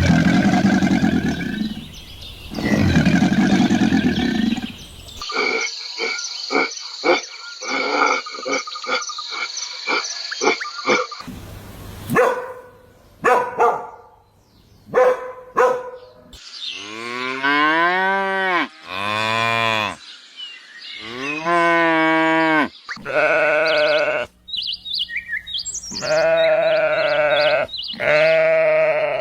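A run of separate farm-animal recordings cut back to back: rough low calls at the start, a stretch of rapid pulses and clicks, then a series of long, wavering bleats typical of sheep in the second half.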